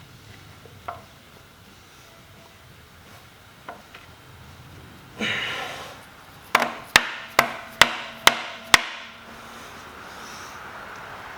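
Hammer tapping on a metal engine part: six sharp, ringing blows about two a second, preceded by a short scrape and a few light knocks.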